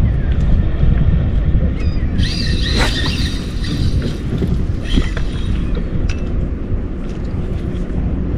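Wind buffeting the microphone in a steady low rumble, with a bird giving a short run of rising and falling calls about two to three seconds in.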